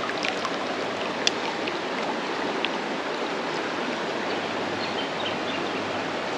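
Creek water running and splashing steadily over a shallow stretch, with a few brief clicks, the sharpest about a second in.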